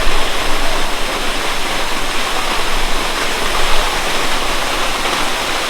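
Waterfall cascading down rock steps close by: a loud, steady rush of falling water.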